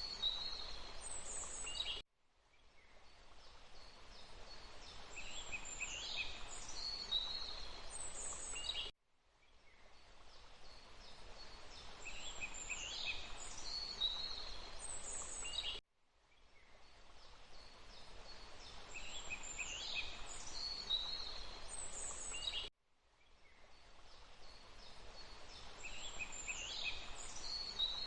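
Short forest recording looped about every seven seconds: a steady background hiss with a cluster of high bird chirps near the end of each pass. Each pass cuts out suddenly and fades back in, three times in all.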